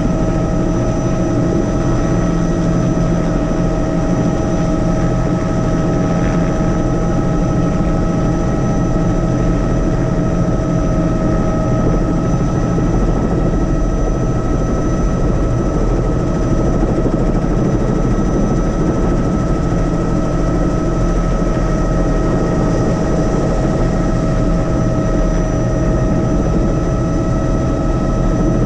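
Helicopter in flight: the steady drone of the rotor and turbine engine, with a constant high whine layered over a low rumble.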